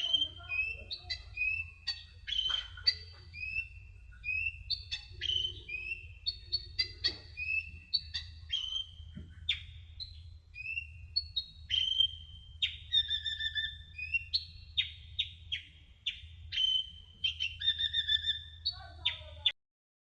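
Sunbird (the 'kolibri ninja' of Indonesian bird-keepers) singing: a fast run of short, high chirps and down-slurred whistled notes, over a steady low hum. The recording cuts out abruptly near the end.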